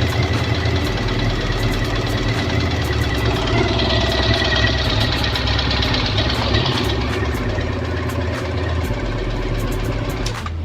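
Honda CB400 Super Four inline-four engine running at idle with a fast ticking over it from the cylinder head, which the owner puts down to valve clearance needing a tune-up with shims.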